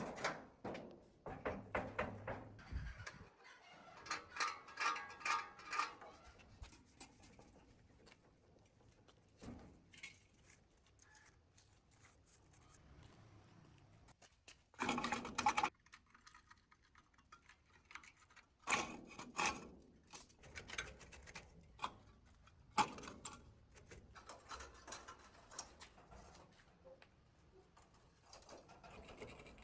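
Hand-tool work on metal: scattered clinks, knocks and scrapes, with a few short louder rasping bursts, the strongest about fifteen seconds in.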